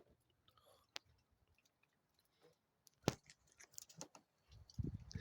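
Mostly quiet, then sharp clicks and rustling handling noise on the recording device, with low rumbling bursts on the microphone near the end.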